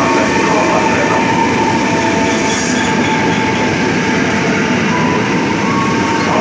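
KRL Commuter Line electric train moving past along the platform track, its wheels running on the rails with a steady thin high tone over the rumble. A brief hiss comes about two and a half seconds in.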